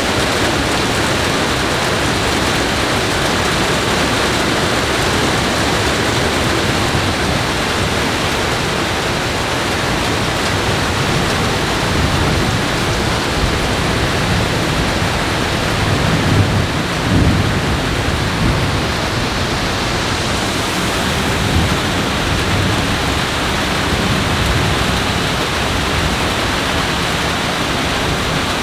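Heavy rain of a thunderstorm falling steadily, with a low rumble of thunder a little past halfway through.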